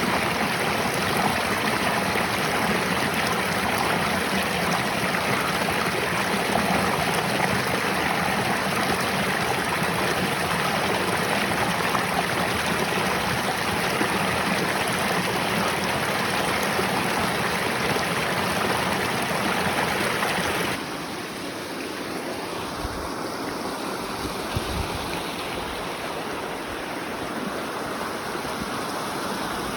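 Mountain stream rushing steadily over rocks. About two-thirds of the way in, the sound cuts abruptly to a quieter, softer flow.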